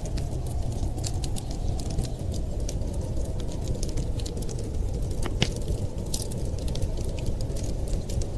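Fireplace crackling: many irregular sharp pops and snaps over a steady low rumble.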